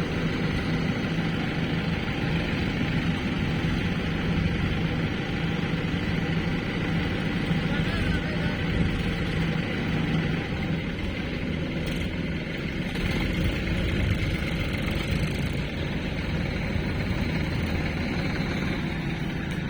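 A heavy diesel engine running steadily, with an even low hum and no changes in speed.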